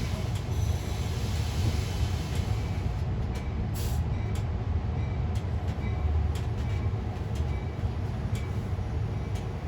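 Amtrak Capitol Corridor passenger train running, a steady low rumble with faint light ticks.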